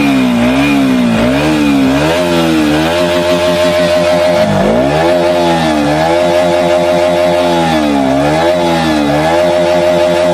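KTM Duke 125's single-cylinder four-stroke engine heard through its exhaust, revved up and let fall back several times in quick throttle blips, with one deeper drop in revs about four and a half seconds in.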